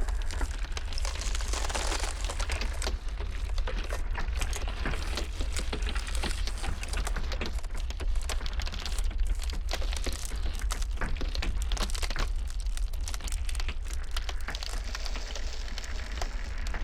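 Cracking ice: a dense, continuous crackle of small pops and snaps, over a steady deep rumble.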